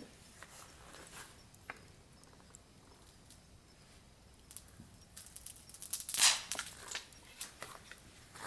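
Burning firewood crackling: scattered sharp pops and snaps, then a dense run of crackles about five to seven seconds in, the loudest a little past six seconds.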